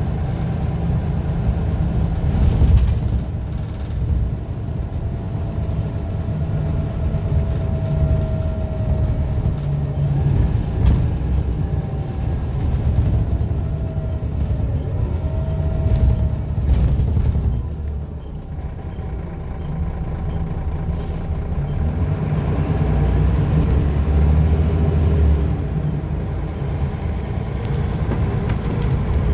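Scania L94UB bus with ZF automatic gearbox running on the road: a steady low engine drone, with a faint whine rising and falling in pitch through the middle. The engine note eases off about two-thirds through, then pulls up again.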